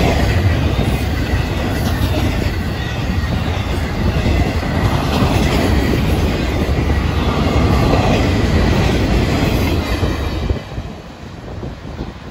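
Freight train cars, double-stack container cars and flatcars, rolling past close by: a steady loud rumble of steel wheels on rail with the clickety-clack of rail joints. About ten and a half seconds in the sound drops sharply to a fainter, more distant rumble.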